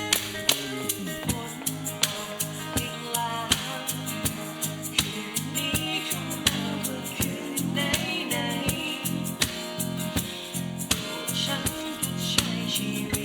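A small band playing an acoustic pop song: guitar chords over a steady shaker beat, with a melody line weaving above.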